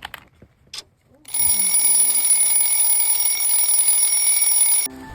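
A few light clicks, then a loud alarm sounds steadily for about three and a half seconds and cuts off suddenly.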